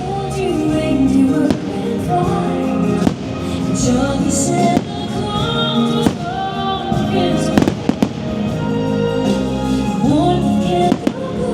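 Fireworks bursting over a holiday show's music with singing, a sharp bang every second or two.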